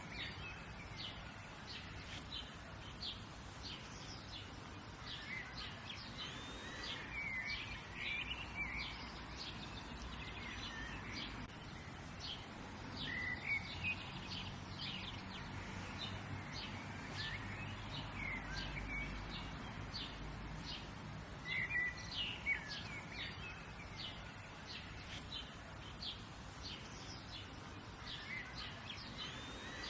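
Several songbirds chirping and singing, with many short, quick chirps and brief clusters of calls throughout, over a faint steady outdoor background hum.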